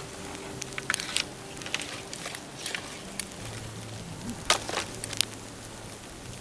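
Dry dead bamboo crackling and popping in a bonfire: sharp cracks at irregular intervals, the loudest about four and a half seconds in.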